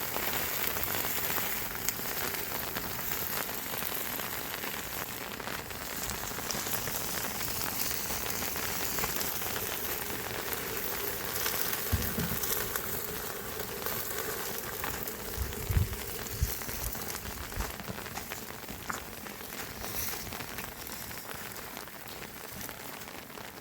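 Steady hiss of water, heavy and even like rain or a fast-running stream, with a few dull thumps about twelve and sixteen seconds in.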